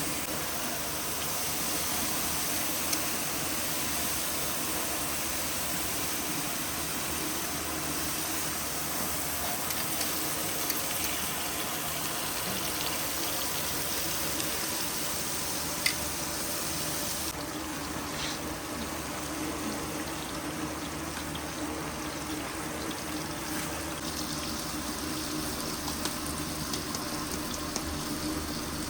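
Steady rushing water, an even hiss that turns slightly duller about two-thirds of the way through, with a few faint clicks.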